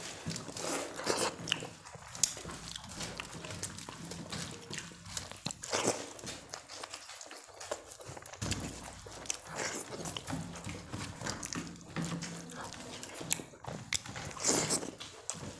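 Two people eating rice and egg curry fast: chewing and mouth smacks, with irregular short clicks and knocks throughout.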